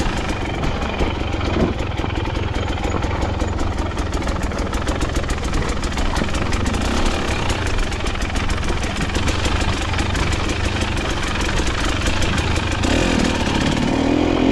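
KTM dirt bike engine running steadily while riding, a little louder near the end.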